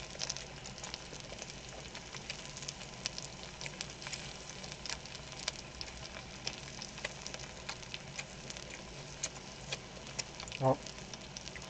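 Pork belly and garlic sizzling in hot fat in a pan, a steady hiss with frequent sharp pops and spatters of oil.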